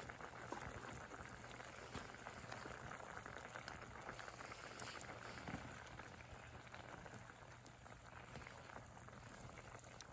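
A pot of liquid bubbling at a steady boil, a faint continuous patter of small pops.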